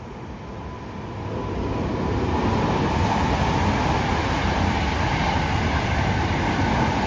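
Passing train: its rumble grows over about the first two seconds, then holds steady and loud.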